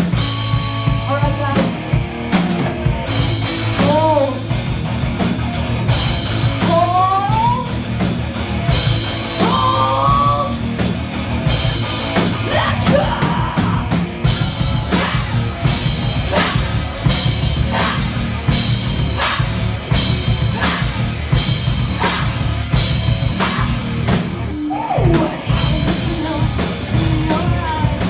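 Live heavy metal band playing: distorted guitars and bass with a pounding drum kit, and a few sliding vocal lines, mostly in the first half.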